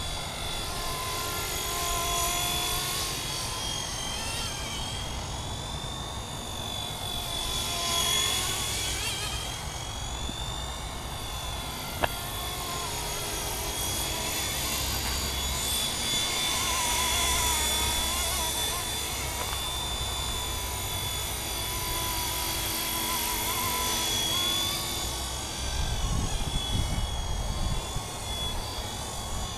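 Radio-controlled MD 500 scale helicopter flying, a steady high whine that wavers slightly in pitch as it manoeuvres. There is one sharp click about twelve seconds in, and a low rumble near the end.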